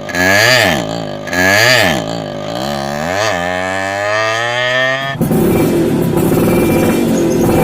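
Two-stroke single-cylinder engine of a Yamaha F1ZR motorcycle revved in three quick blips through its exhaust, then settling to a steady run whose pitch creeps slowly up. About five seconds in the engine sound cuts off abruptly and rock music takes over.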